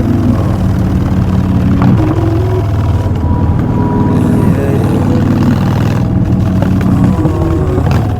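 Harley-Davidson Street Bob's V-twin running through Vance & Hines Short Shots exhaust while riding, the exhaust note shifting up and down in pitch with the throttle.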